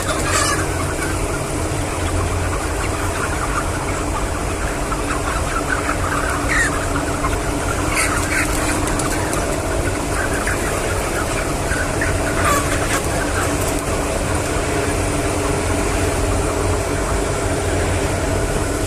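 Steady low mechanical hum with chickens calling over it, a few short rising calls standing out.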